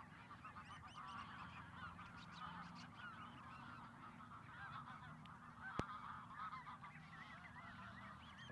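A large flock of birds calling all at once, many short overlapping calls forming a continuous chorus. A single sharp click comes about six seconds in.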